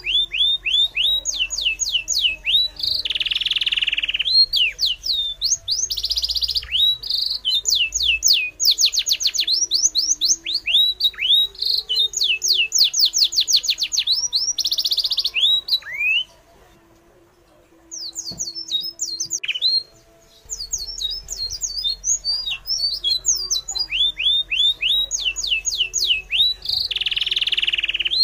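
Birds chirping: fast runs of short, high, falling chirps mixed with brief buzzy trills, stopping for about four seconds past the middle and then starting up again.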